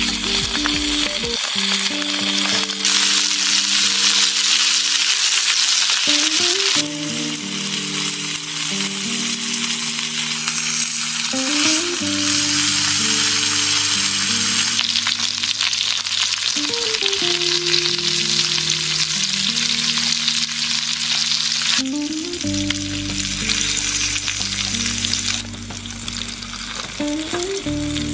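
Food sizzling and frying in a hot pan, the sizzle jumping louder or softer several times, over soft background music with held low notes.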